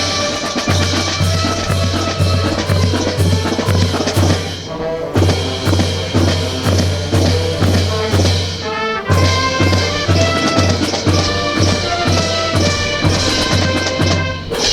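Marching brass band music over a steady bass drum beat, with short breaks in the beat about five and nine seconds in.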